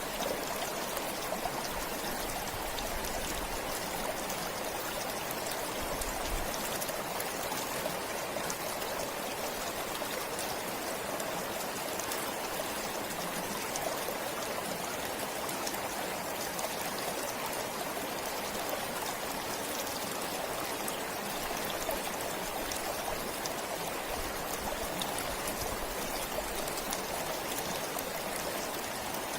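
A forest stream running steadily, water splashing and trickling over stones with an even, unbroken rush.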